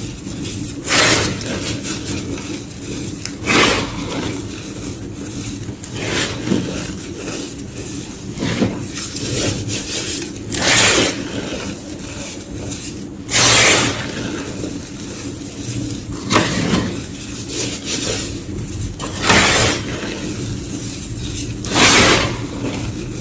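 Soft, powdery white gym chalk being crushed, with a crunch every two to three seconds and quieter crumbling between them. A faint steady low hum runs underneath.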